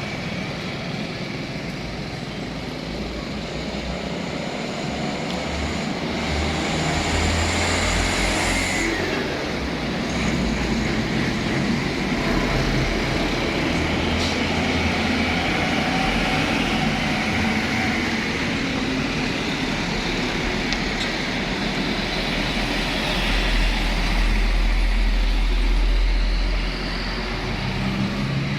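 Heavy trucks passing on a road amid steady traffic noise, with a deep engine rumble that grows louder twice as vehicles go by, about a quarter of the way in and again near the end.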